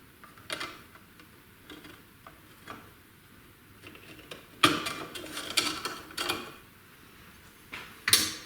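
Metal parts of a portable band saw being handled and fitted by hand: scattered light clicks, then a run of metallic clattering about halfway through, and a sharper clank near the end.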